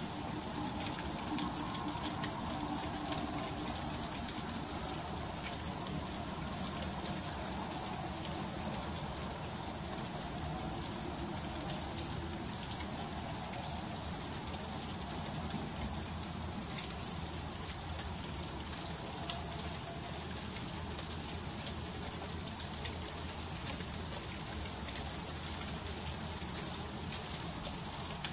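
Freezing rain falling steadily in an ice storm: a dense, even patter of fine ticks as the drops strike surfaces.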